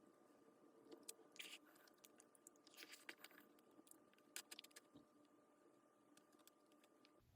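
Near silence with faint, scattered small clicks and crunches from quiet chewing.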